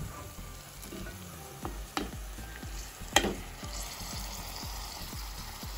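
Flat beans frying in oil in an aluminium pot, with a low sizzle as chopped tomatoes are tipped in, and a few sharp knocks of the plate or spoon on the pot, the loudest about three seconds in.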